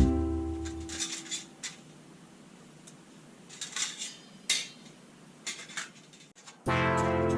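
Music fades out in the first second. A few light metal clinks and scrapes follow, spaced irregularly, and the music comes back in near the end.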